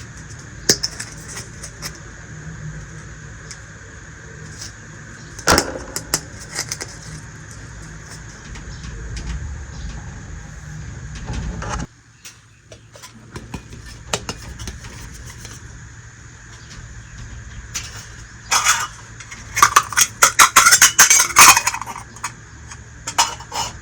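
Small toy kitchenware pieces being handled, clicking and clattering against each other and a hard surface. There are scattered single clicks, then a quick run of clattering near the end, over a low background hum that drops away about halfway through.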